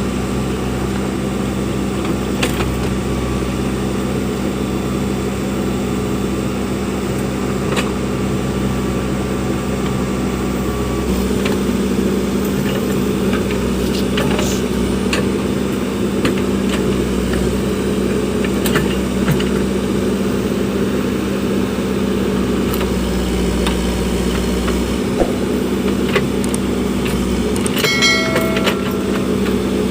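Backhoe loader's diesel engine running steadily, its note shifting about eleven seconds in, with occasional clanks and knocks and a brief high squeal near the end.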